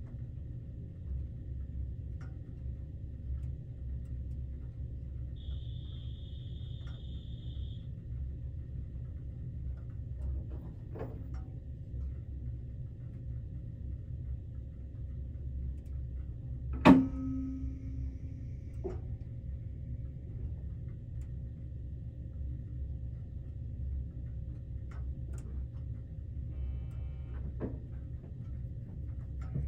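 Steady low rumble inside a 381-series limited express electric train carriage as it prepares to depart, with a faint steady hum. A brief high tone sounds about five seconds in, and there are a few small clicks and one sharp knock about seventeen seconds in.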